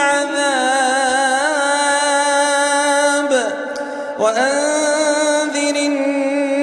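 Male Quran reciter chanting in the melodic tajweed style, holding long ornamented notes. There is a short break about halfway, then a second held phrase.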